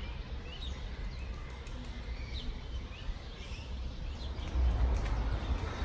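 Small birds chirping in short, repeated calls, over a low rumble that grows louder about three-quarters of the way through.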